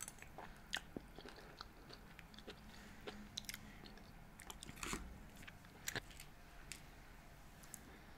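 A person chewing a mouthful of food close to the microphone: faint, scattered wet mouth clicks and smacks.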